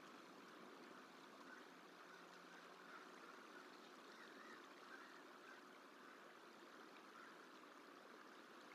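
Faint, steady outdoor ambience: the even rush of running water, with a few faint distant bird chirps.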